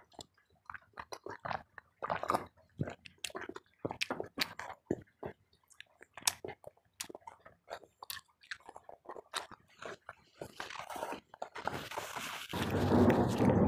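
Close-miked chewing: a person eating, with many short mouth clicks, smacks and light crunches. About twelve seconds in, a louder, longer rustling as a tissue is rubbed over the mouth near a clip-on microphone.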